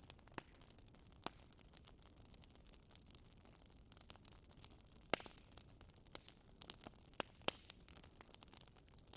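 Wood fire burning in a fireplace, crackling softly with scattered sharp pops over a faint hiss. The loudest pop comes about five seconds in.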